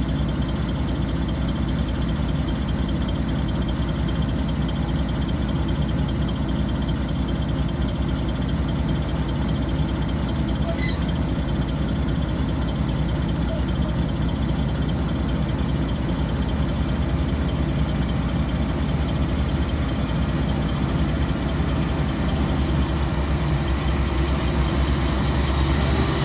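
Heavy machine's diesel engine running steadily at an even pitch, its low drone growing a little louder near the end.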